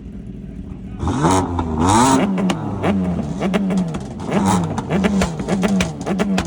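Performance car engine idling, then revved hard about a second in and blipped over and over, the pitch rising and falling about twice a second, with exhaust pops and crackles.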